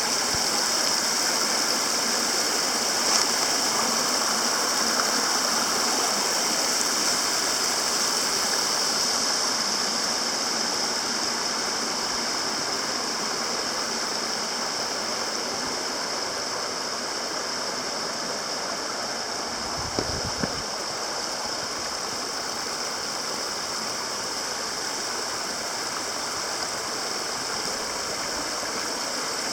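Waterfall water rushing in a steady, even hiss that eases off a little about a third of the way in. A brief low bump comes about twenty seconds in.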